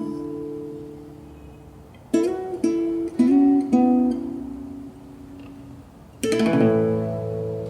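Acoustic guitar closing out the song. A chord dies away, four single plucked notes follow about two to four seconds in, then a final strummed chord about six seconds in is left ringing.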